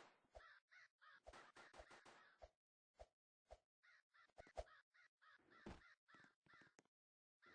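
Crow cawing faintly in strings of short, harsh calls separated by pauses.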